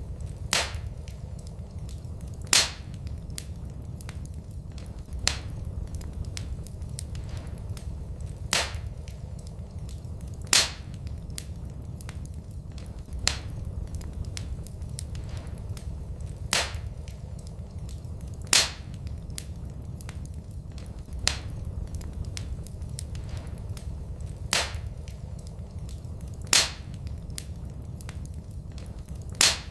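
Wood fire crackling in a fireplace: sharp pops every one to three seconds over a low, steady rumble of the flames. The same pattern of pops repeats every eight seconds, as in a looped recording.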